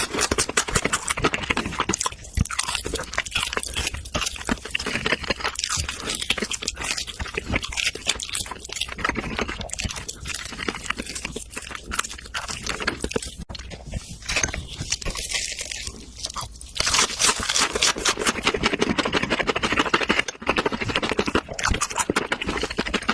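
Steady chewing and crunching of steak and barbecue ribs: a dense, unbroken run of crackling clicks.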